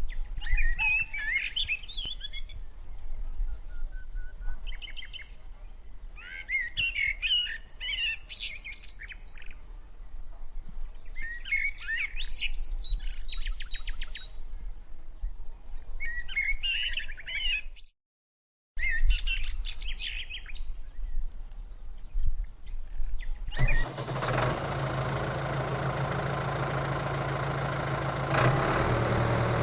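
Small birds chirping in short bursts every few seconds over a low background hum, with the sound dropping out briefly about 18 s in. About 23 s in, a steady motor hum cuts in and runs evenly: the mini tractor's motor running.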